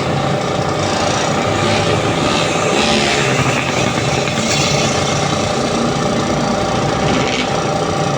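Electric air compressor running steadily under load while it fills its tank, before the pressure switch cuts it out.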